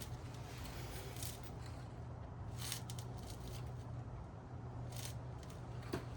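Faint clicks and rustles of small metal hardware, washers and bolts, being handled, over a steady low hum.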